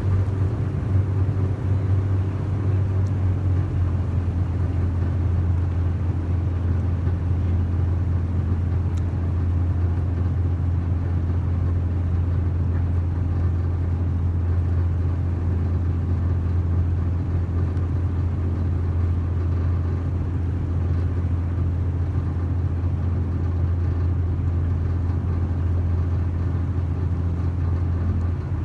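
Yakatabune's engine running at a steady speed under way: a deep, even hum with no change in pitch.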